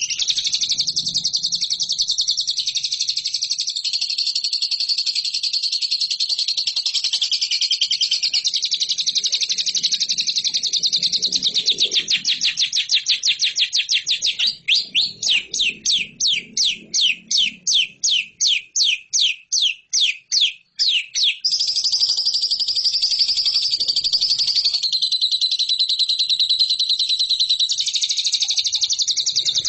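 Lovebird singing a long, unbroken, high-pitched chattering song of very rapid notes. Partway through, it changes to a run of separate sweeping notes, about three a second, then returns to fast chatter.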